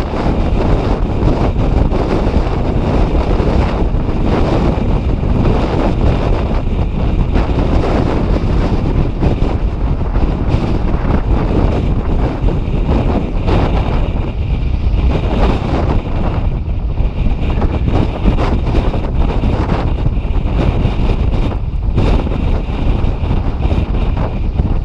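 Strong wind buffeting the microphone: a loud, continuous low rumble that surges unevenly with the gusts.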